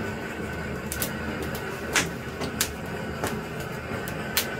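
Firewood burning in an open wood fire, crackling with irregular sharp pops.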